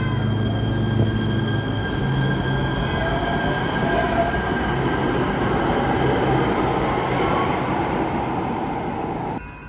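Los Angeles Metro train running on the rails: a steady rumble with thin, high, steady squealing tones from the wheels and a brief rising whine in the middle. It cuts off suddenly near the end.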